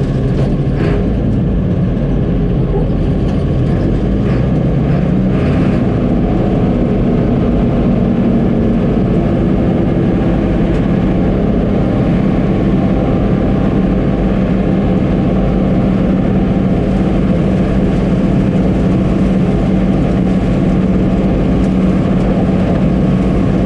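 Combine harvester running steadily while harvesting, its engine and machinery droning as heard from inside the cab. A few light knocks come in the first several seconds.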